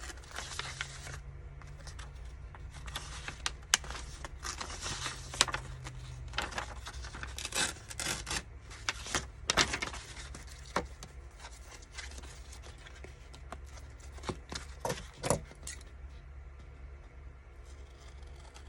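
Paper being handled and worked at a craft table: rustling and scraping with scattered sharp taps and clicks, over a steady low hum.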